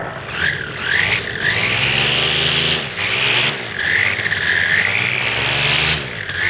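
Paramotor engine revved up from idle twice, each run-up rising in pitch with a high whine, holding for a second or two, then dropping back, after a couple of short blips.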